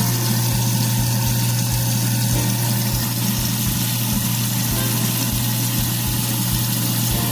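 Kitchen garbage disposal motor running steadily with a strong low hum, water running through it, now that the jam has been loosened.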